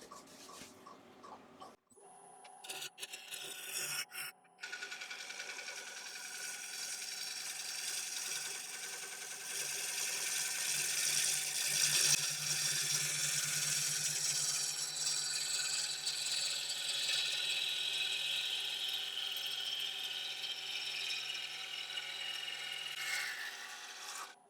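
Wood lathe running with a steady hum while a bowl gouge cuts the outside of a dry ash bowl blank: a hissing scrape of shavings that starts about four seconds in, grows louder midway and stops just before the end. A few sharp clicks come before the cut begins.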